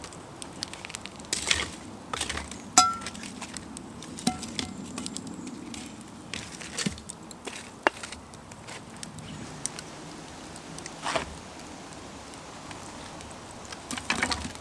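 Campfire crackling, with scattered sharp knocks and a couple of short ringing clinks.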